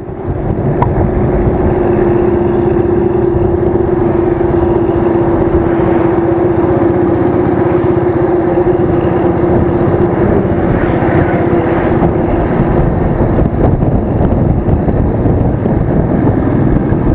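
Royal Enfield Thunderbird single-cylinder engine running on the move, with dense road and wind noise on the action camera's microphone. A steady hum holds through the first two-thirds, then fades into the general engine and road noise.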